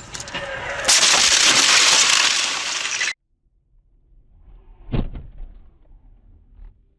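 Vehicle collision with breaking glass: a loud crunch and shattering lasting about two seconds that cuts off suddenly. A couple of seconds later comes a single sharp knock.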